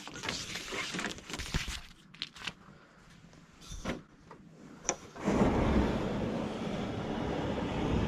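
A run of light clicks and knocks, as of gear being handled. About five seconds in, a steady rushing noise sets in abruptly and holds; it sounds like wind on the microphone.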